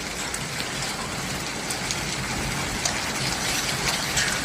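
Heavy rain pouring down steadily, with scattered sharp ticks of impacts.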